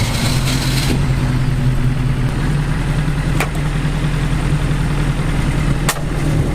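BAC Mono's four-cylinder engine running steadily at low revs, with two sharp clicks, one about halfway through and one near the end.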